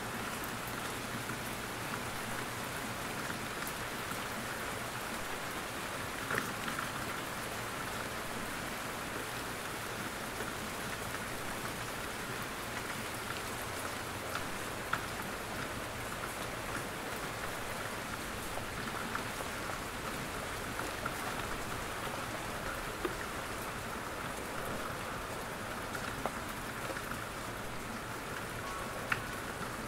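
Steady rain falling in a forest, with scattered louder drops pattering from the trees.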